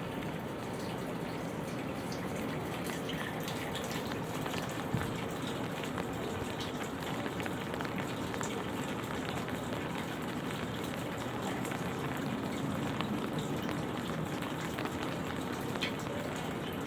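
Light rain falling, with many small scattered drop ticks over a steady low rumble, and one sharper tap about five seconds in.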